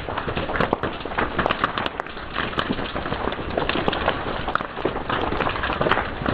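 Fire crackling, with many irregular sharp pops and snaps over a steady hiss.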